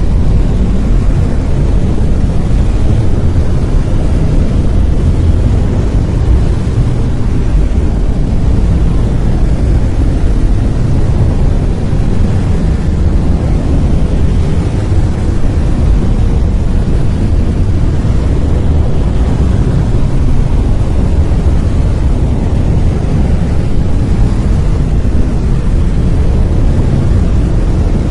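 Brown noise: a steady, deep, even rumble-like hiss, strongest in the low end and falling away toward the highs, with no changes or events.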